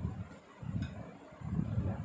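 Close-up chewing of roti and mixed-vegetable curry with the mouth closed, heard as soft low mouth sounds every half second or so. A faint click comes a little under a second in.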